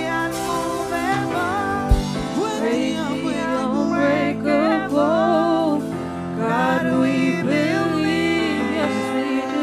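Gospel worship music: a voice singing over sustained instrumental chords, with a single low thump about two seconds in.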